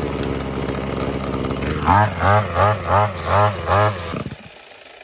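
Petrol brush cutter engine running after repair: it idles steadily, then its throttle is blipped six times in quick succession, each rev rising and falling in pitch, before the sound drops away about four seconds in.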